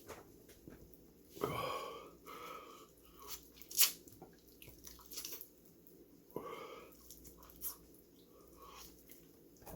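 Close-up mouth sounds of a man chewing and biting into crispy fried chicken, with scattered sharp clicks. Twice, about a second and a half in and again about six and a half seconds in, he lets out a loud wheezing breath, a reaction to the burn of the very spicy sauce.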